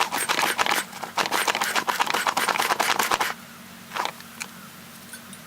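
Rapid clattering and rattling of small hard objects being handled, in two runs of about one and two seconds, followed by a couple of single clicks, over a faint steady hum.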